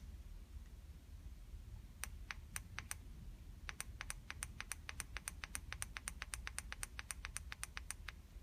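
Push-button on an e-bike's handlebar display control being clicked: four spaced clicks, then a quick run of about five clicks a second for some four seconds. The button is stepping the top-speed setting.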